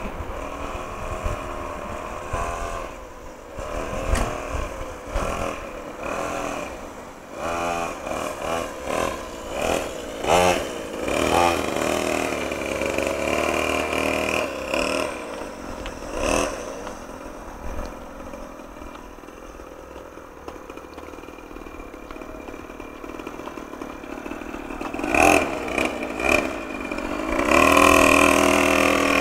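Small motocross bike engine revving up and down again and again, its pitch rising and falling with the throttle, louder near the end.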